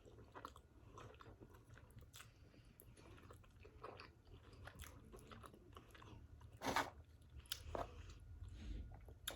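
Faint close-up chewing of pizza, with small wet mouth clicks throughout and a couple of louder crunchy bites about two-thirds of the way through.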